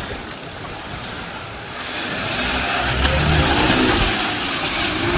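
A racing car's engine and tyre noise going past, with the rush swelling about two seconds in.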